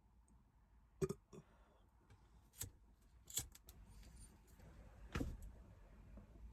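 A few sharp clicks and light knocks of small objects being handled, about five in all and spread over several seconds, with a faint background between them.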